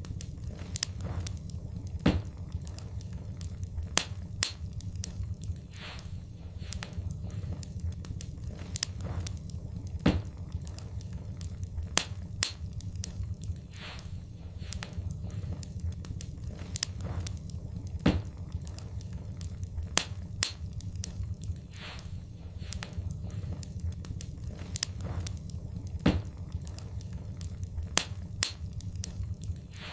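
Wood fire in a fireplace crackling with frequent small pops and snaps over a steady low rumble of the flames, with a sharper, louder pop about every eight seconds.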